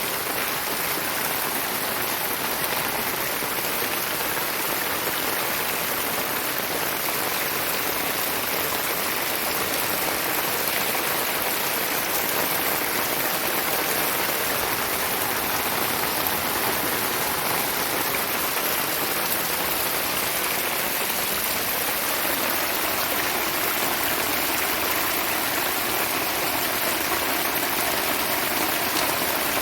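Heavy rain pouring down steadily, with rainwater running off in a strong stream.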